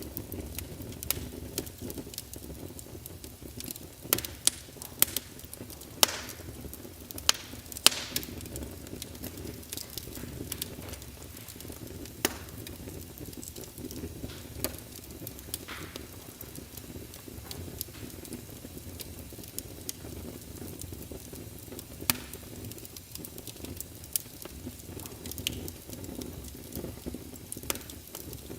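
Wood fire in a fireplace crackling: a steady low rumble of flame under frequent sharp pops and snaps, with a cluster of louder pops a few seconds in.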